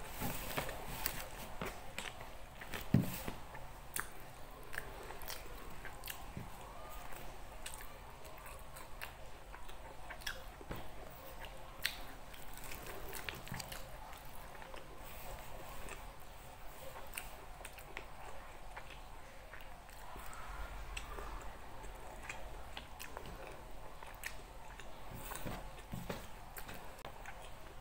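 Close-miked chewing and biting of nasi Padang, with frequent small clicks of mouth and food throughout and one louder knock about three seconds in.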